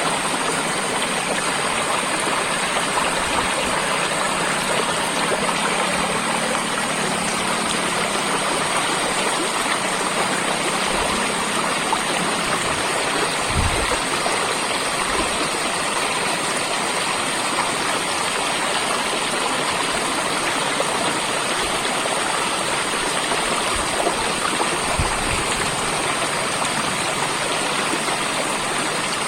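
Water running steadily in a stream, a continuous even rush and babble with no breaks.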